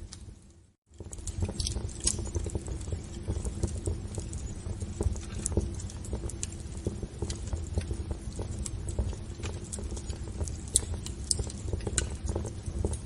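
Wood fire crackling in a fireplace: irregular sharp pops and snaps over a low steady rumble of the flames. The sound drops out briefly just under a second in, then comes back.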